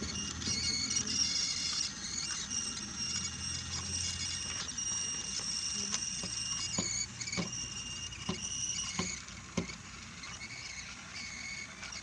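Brio toy train running along wooden track: a small motor whirring with a steady high whine, and from about halfway in a series of sharp clicks, about one every half second, as it rolls over the track.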